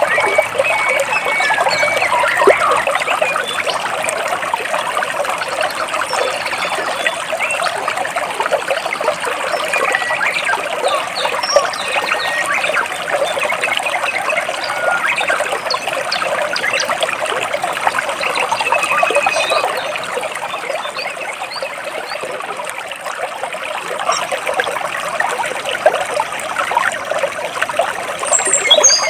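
Stream water trickling and splashing steadily between rocks, with a few short bird calls over it and a quick run of high bird chirps near the end.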